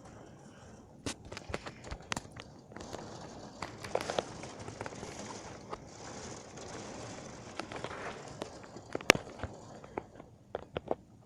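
Heavy rain falling in a steady hiss that swells in the middle and eases near the end, with many irregular sharp ticks and taps over it, the loudest about nine seconds in.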